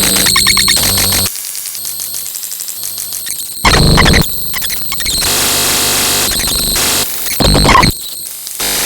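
Loud electronic static and harsh noise that changes abruptly every second or so, with two short, louder, deeper blasts about four and seven and a half seconds in.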